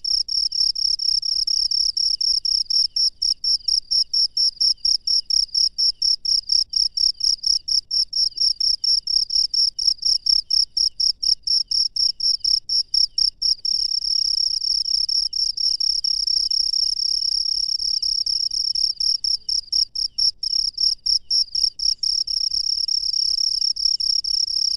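Crickets chirping loudly in a high, fast, even pulse. The chirping runs together into a steady trill for several seconds after the halfway point and again near the end.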